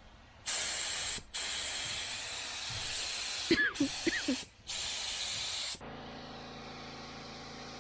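A paint spray gun with a 2.0 tip blasting compressed air and acetone in four sharp-edged hissing bursts as the trigger is pulled and released; the gun is being flushed out. Near the end the air compressor's motor runs with a steady hum.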